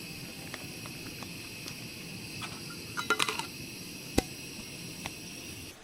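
Steady background hiss with a few faint light ticks, a short cluster of clattering clicks about three seconds in, and one sharp tick about a second after that.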